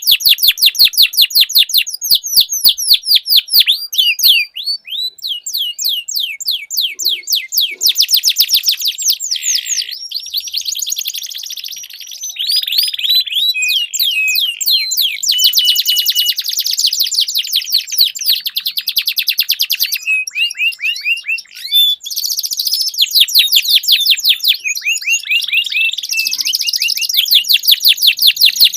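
Domestic canaries singing a long rolling song: fast trills of repeated sweeping notes, one trill type giving way to another every second or two without a break.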